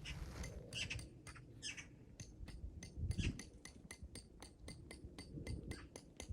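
A quick, irregular run of light clicks and clinks, several a second, over a low rumble, with a duller thud about three seconds in.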